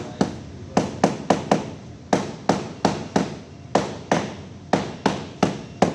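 Repeated hammer blows at an uneven pace of about two to three a second, some in quick pairs, each a sharp knock that dies away quickly.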